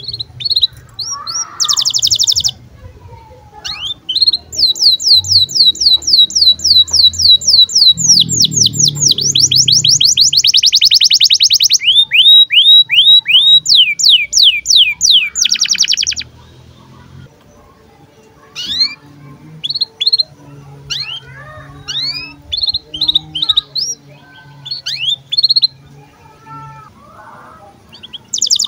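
Domestic canary song: long rolls of rapid repeated high notes, several a second, then scattered short chirps and call notes.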